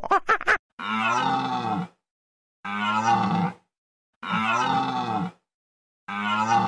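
A deer's low, drawn-out call, repeated four times with even pauses between, each call about a second long. A quick run of short monkey calls ends just at the start.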